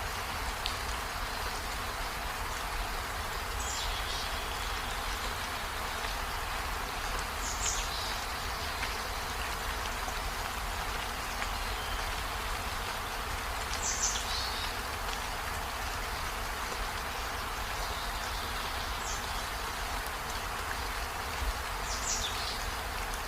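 Steady rain falling. Short, high, falling calls from an animal cut through it every few seconds.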